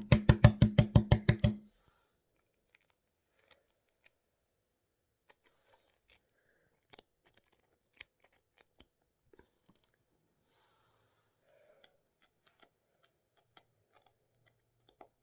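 A quick run of pitched beats, about seven a second, fills the first second and a half. After that come faint, scattered clicks and taps of a hard-boiled egg's shell being cracked and picked at by hand.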